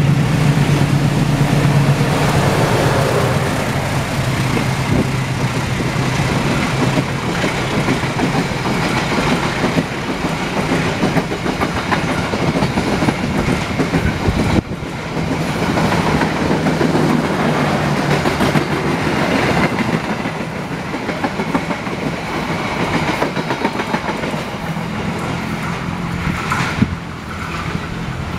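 A rake of commuter electric train cars on a transfer run passing close by, its wheels running loud and steady on the rails. The level dips about halfway through and drops again near the end as the last cars clear.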